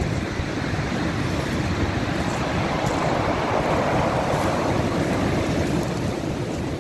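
Storm surf: heavy waves breaking and washing up the shore in a steady roar that swells to a louder wash about halfway through, over a low rumble of wind.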